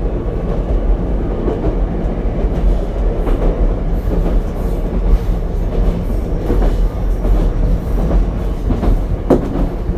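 Ichibata Electric Railway 7000-series single-car electric train running between stations, heard from inside the car: a steady rumble of wheels and running gear, with occasional clicks as the wheels cross rail joints.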